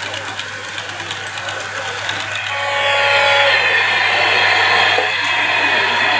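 Model railway exhibition hall ambience: crowd chatter mixed with the mechanical running noise of a model train layout. It grows louder about two and a half seconds in, with a brief tone near the three-second mark.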